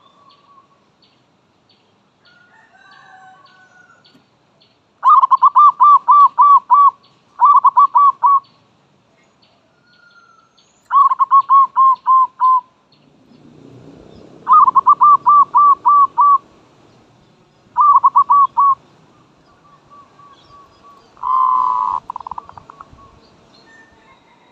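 Zebra dove cooing: six runs of quick staccato coos, about four notes a second, each run one to two seconds long and repeated every few seconds. Faint high chirps of small birds come between the runs.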